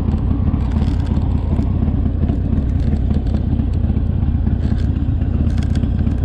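Harley-Davidson Sportster's air-cooled V-twin engine running steadily, a dense low throb.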